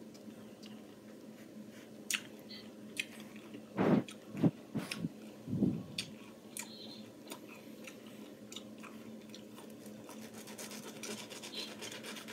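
A person chewing juicy fresh pineapple, with wet mouth clicks and smacks, and a few louder thumps about four to six seconds in. Near the end a knife works through the fruit with quick small clicks.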